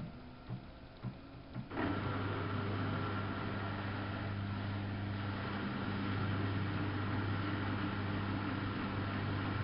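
Samsung WF71284 front-loading washing machine mid-cycle: the drum motor hums steadily, stops for under two seconds with three soft knocks in the pause, then starts again and runs on, as the drum turns one way, pauses and turns back.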